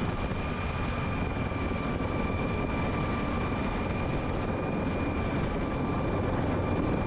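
Jet aircraft engine running steadily on a carrier flight deck: a constant low rumble with a steady high whine over it.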